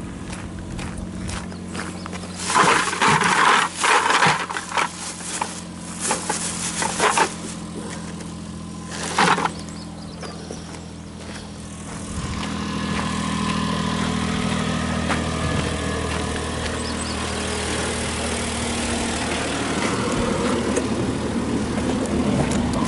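Daihatsu Hijet kei truck engine running under way, with several loud, rough noisy bursts in the first ten seconds. From about twelve seconds in, the engine note grows louder and holds steady.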